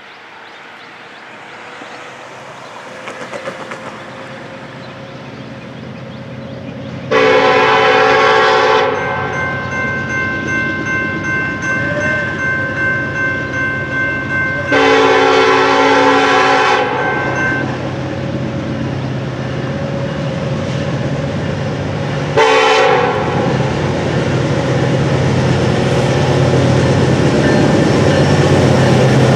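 Norfolk Southern EMD SD70ACE diesel locomotive approaching with its engine rumble building, sounding its air horn in two long blasts and then a short one, the opening of the long-long-short-long grade crossing signal.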